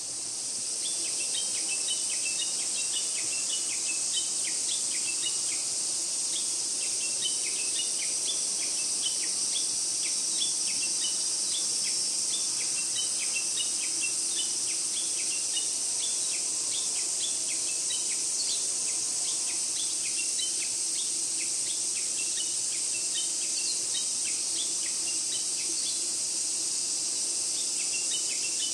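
A chorus of summer insects: a steady, shrill high drone with many short chirps scattered densely over it.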